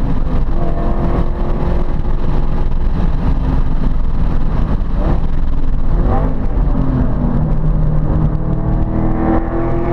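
Ford Mustang Boss 302's 302-cubic-inch V8 running hard on track. Its note rises and falls as it changes speed, with a couple of quick pitch swings about halfway through.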